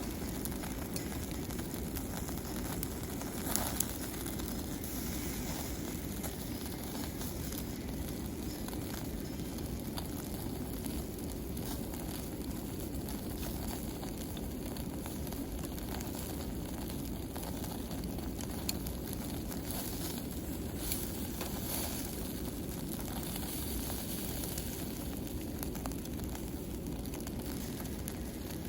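Charcoal fire crackling under grilling meat, with a few sharp pops over a steady low noise.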